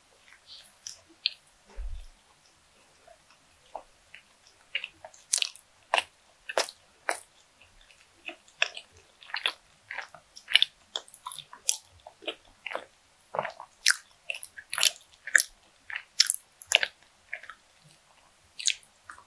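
Close-miked chewing of soft bread with red beans baked in: wet, irregular mouth clicks and smacks, about two to three a second. There is a brief low thump about two seconds in.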